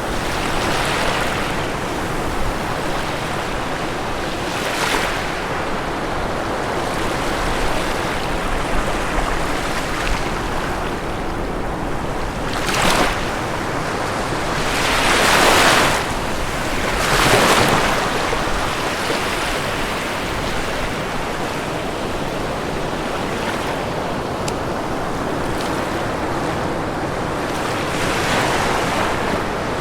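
Ocean waves breaking on a shore, a steady wash of surf with louder breakers swelling and fading every few seconds, the strongest two in the middle.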